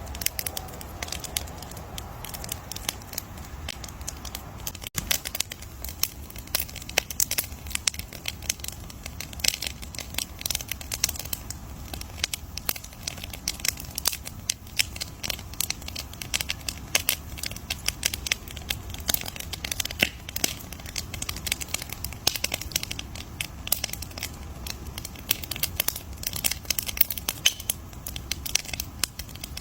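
Campfire crackling: a dense, irregular stream of sharp pops and snaps over a low steady rumble of the burning wood.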